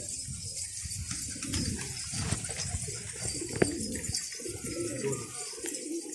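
Many domestic pigeons cooing together in overlapping low calls. A single sharp click sounds about three and a half seconds in.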